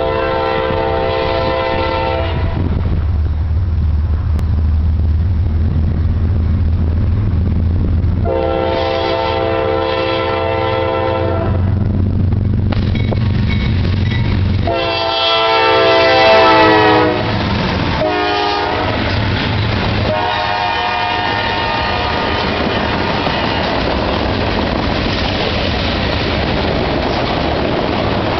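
Multi-chime air horn of a GE diesel freight locomotive blowing a series of blasts as the train approaches. The last four go long, long, short, long, as for a grade crossing, and the horn's chord drops in pitch as the locomotive passes about halfway through. The diesel engines rumble between blasts. From about three-quarters of the way in, the wheels of passing autorack cars make a steady rolling clatter on the rails.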